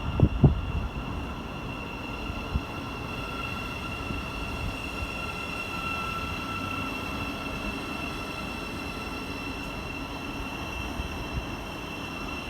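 Train running through a railway station: a steady rumble with a high steady whine, and two loud knocks right at the start.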